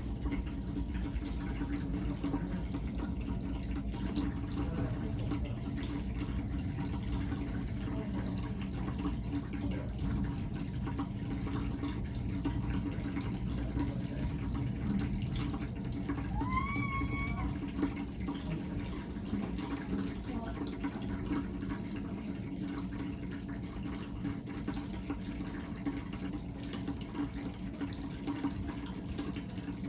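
Electric pet water fountain running, its water trickling steadily over a low pump hum. A cat meows once, briefly, about halfway through.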